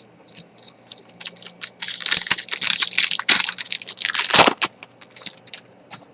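A trading card pack wrapper being torn open and crinkled by hand, an irregular run of crackles that is densest in the middle and thins out near the end.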